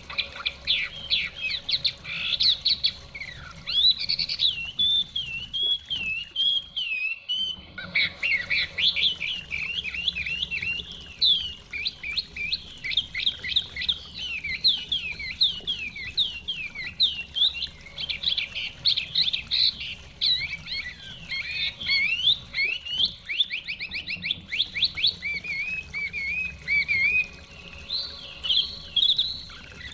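Chinese hwamei (họa mi) singing a long, rapid, varied song of loud whistled phrases and trills, broken off briefly about seven seconds in.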